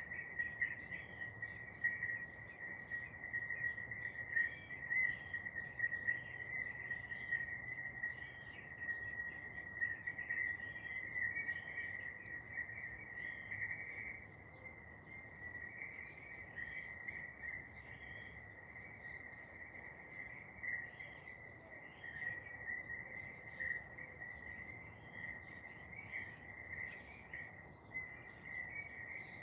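Garden birds chirping, many short calls overlapping, over a steady high-pitched insect trill; one sharp high note stands out near the end.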